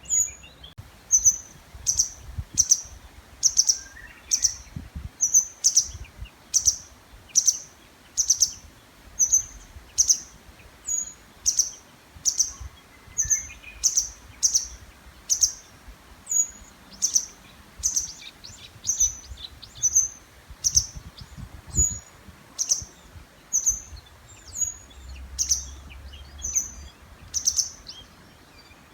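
A small bird repeating a short, high-pitched call over and over, about one and a half calls a second, with fainter bird song behind it.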